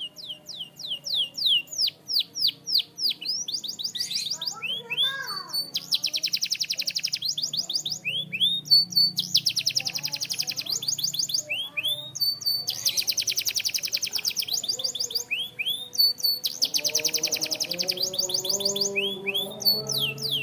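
Canary singing: a run of quick falling whistles, then four long, rapid trills of about a second and a half each, linked by short upswept notes.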